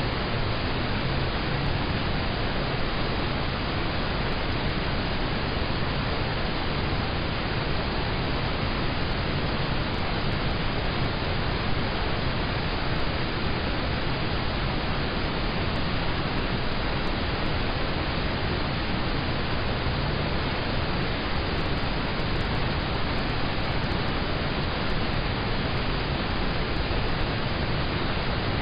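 Steady rain on a car, heard from inside the cabin: an even, unbroken hiss.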